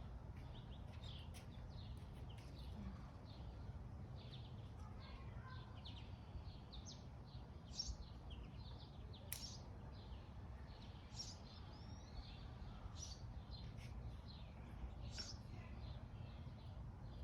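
Songbirds chirping and calling faintly: many short, high chirps from several birds throughout, over a steady low background rumble.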